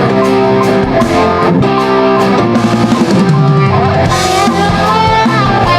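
Live rock band playing an instrumental passage without vocals: electric guitar over a drum kit, with a sliding note falling in pitch about three seconds in.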